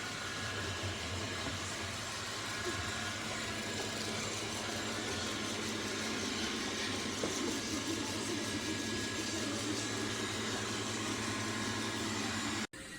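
Steady motor whir of a Roborock Q7 MAX+ robot vacuum running, with a faint steady hum in it. It cuts off suddenly near the end.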